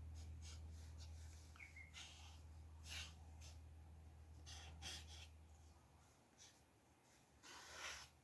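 Faint, scattered short scratches and rustles of pen and paper at a drawing desk, over a low steady hum that fades out about six seconds in.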